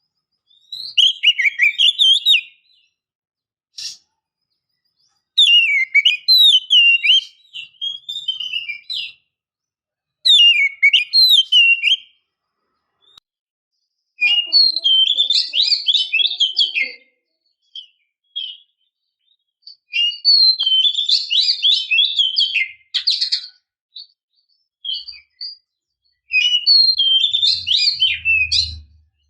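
Song of a female Oriental magpie-robin (kacer), a lure recording meant to call males and set them singing. It comes as about seven bursts of rapid, varied warbling with sliding whistled notes, each broken off by a short silence.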